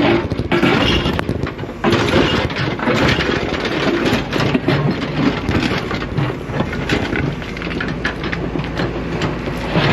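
Excavator digging: the bucket scrapes and crunches through gravel and rock in a dense run of cracks and knocks, with the machine's engine running underneath.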